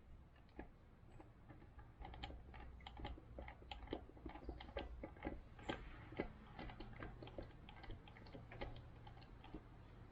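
Irregular light metallic clicks and ticks, several a second, starting about two seconds in: hand tools and small metal parts being handled while the front wheel and fork are taken apart.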